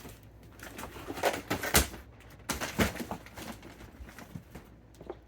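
Scattered knocks and rustles of fireworks packaging being handled and set down, a few sharp taps among softer shuffling.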